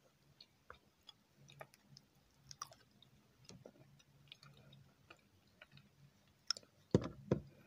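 A person chewing a soft dessert close to the microphone, with small wet mouth clicks scattered throughout and two louder knocks near the end.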